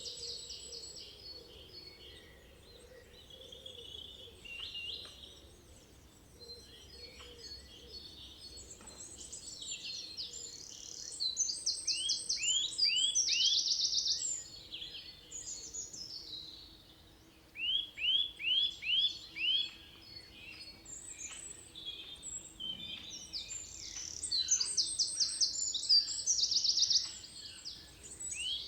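Several forest birds singing at once, overlapping songs of rapid high trills and runs of four or five quick curved whistled notes. The songs swell loudest twice, about a third of the way in and again near the end.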